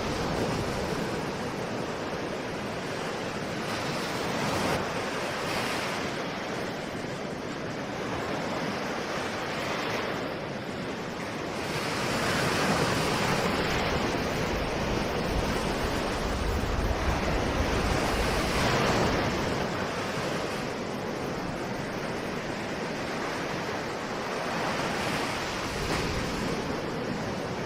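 Ocean surf: waves breaking and washing onto the shore in a continuous wash that swells and eases every several seconds.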